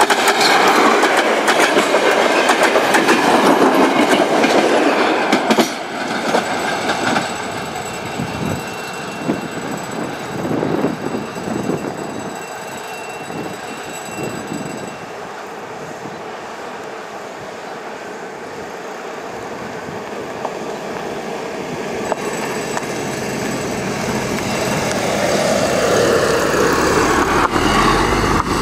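D1 diesel multiple unit passing close by, its wheels clacking over rail joints, loudest in the first few seconds and then fading as it draws away. Near the end another engine sound grows louder and falls in pitch as it passes.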